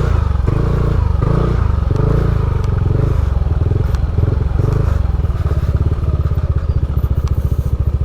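Motorcycle engine running at low speed, with a steady fast exhaust pulse.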